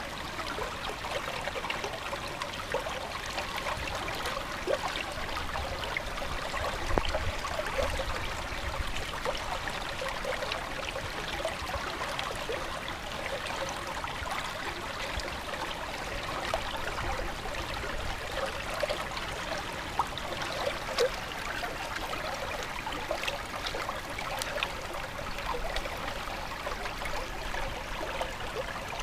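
Water running steadily in a stream, with many small gurgles and splashes over an even rush.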